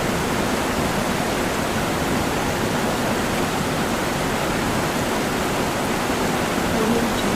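Steady, even rushing noise with no distinct events, like running water.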